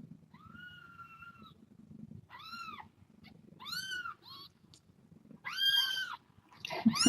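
Young kittens mewing: about six separate high-pitched cries, each rising and falling, the last two the loudest.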